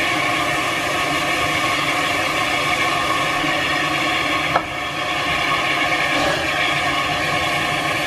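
Heritage railway train passing, running with a steady droning, many-toned engine sound, and one sharp click about halfway through.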